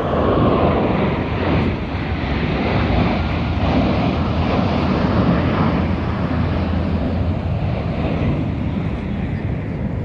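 Military jet aircraft flying past, a loud steady roar of jet engines with a tone that falls in pitch near the start.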